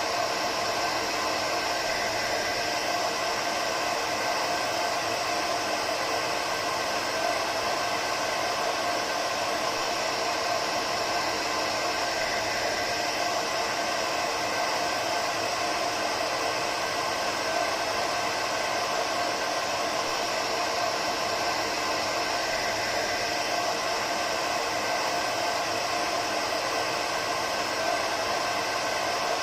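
Hair dryer running steadily: an even airflow rush with a faint motor hum, unchanging throughout.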